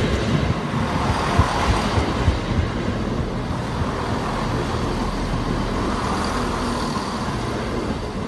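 Northern Class 170 Turbostar diesel multiple unit passing close by at speed: a steady rush of wheels on rail, with a few low thumps in the first two or three seconds.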